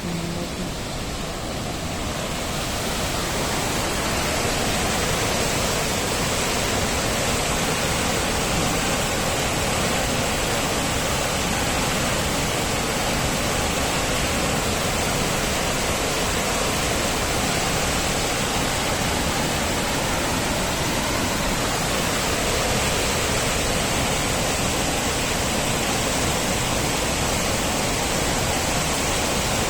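Krimml Waterfalls' cascading water rushing steadily, swelling over the first few seconds and then holding level.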